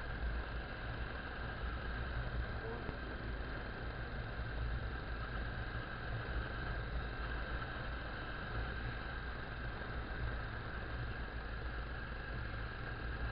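Motorcycle riding along at a steady pace: engine running under a constant rush of wind and road noise, with no change in speed.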